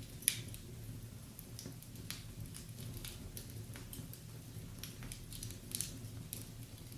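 Wood fire crackling in a fireplace: irregular small pops and snaps, the sharpest about a third of a second in and a few more close together near the end, over a low steady hum.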